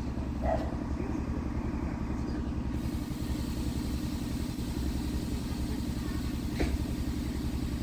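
Low, steady rumble of a train of passenger coaches rolling slowly through a station, with a single sharp clank about two-thirds of the way in.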